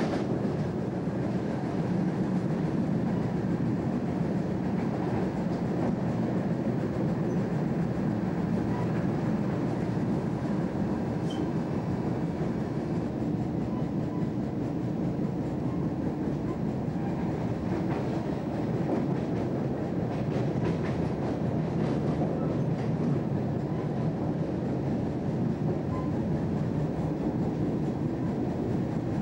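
Steady running noise of a passenger train heard from inside the carriage: wheels on rails at speed, with a few faint clicks.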